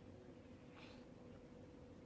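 Near silence: room tone with a faint steady hum, and one brief faint soft noise about a second in.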